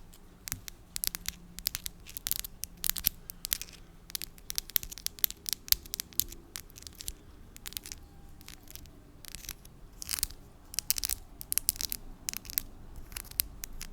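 Long artificial nails tapping and scratching close to a microphone: quick, irregular clicks and short scratchy strokes, with a lull about eight seconds in.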